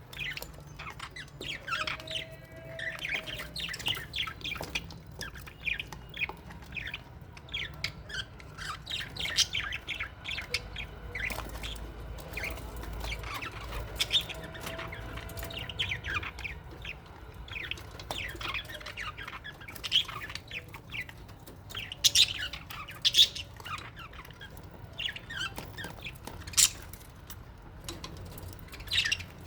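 A flock of small parrots, lovebirds and budgies, chattering in an aviary: constant quick chirps and twitters, with a few louder sharp squawks in the second half.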